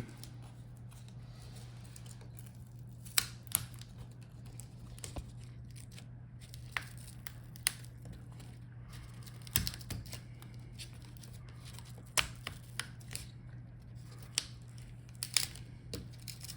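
Laptop display video cable being worked free of the display back cover by hand: scattered sharp clicks and short crinkling, tearing sounds over a steady low hum.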